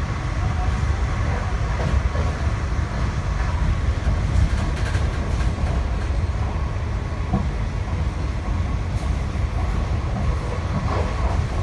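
Passenger train running along at speed, heard from inside the carriage: a steady low rumble of the wheels on the track.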